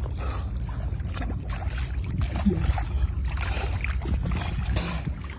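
Water splashing and sloshing around a small boat in a strong current, over a steady low rumble.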